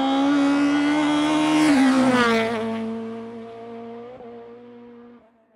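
Racing car engine at high revs holding one steady note, which drops in pitch about two seconds in as the car passes and then fades away.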